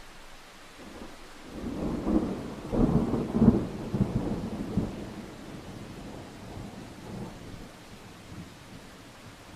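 A peal of thunder rumbling over steady rain: it builds about a second in, is loudest with a few sharp cracks around three seconds in, then rolls away and fades out.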